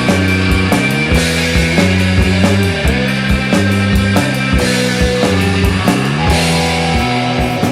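Surf-punk rock band recording: electric guitar, bass and drums playing with a steady beat, with several sliding notes.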